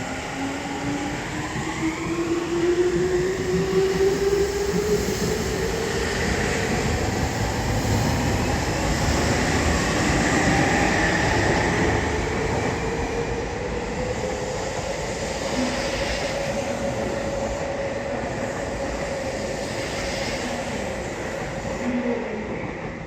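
Electric commuter train accelerating: its inverter and traction motor whine rises steadily in pitch as it gathers speed, then levels off, over the running noise of wheels on rail.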